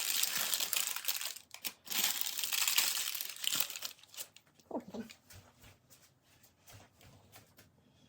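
Crinkling and rustling of paper or plastic packaging being handled, for about the first four seconds, followed by a few soft clicks and knocks. A short wavering squeak sounds about five seconds in.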